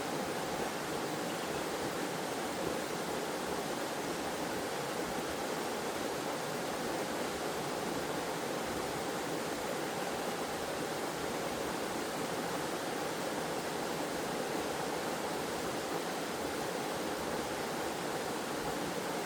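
Waterfall and stream water flowing, a steady, even rush of falling and running water.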